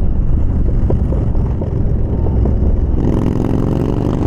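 Yamaha Bolt's air-cooled V-twin running under way, heard through a helmet microphone with a heavy low wind rumble. About three seconds in, a steadier pitched engine note comes up over the rumble.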